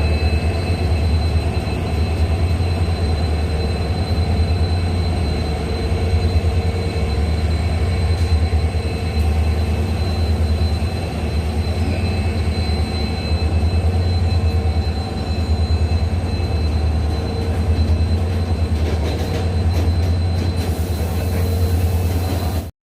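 Freight train of BCNA covered wagons rolling past, a steady heavy rumble with a thin steady high whine above it; it cuts off suddenly near the end.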